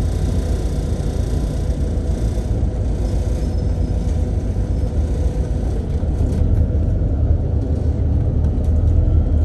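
Passenger train running with a steady low rumble and a faint held tone above it.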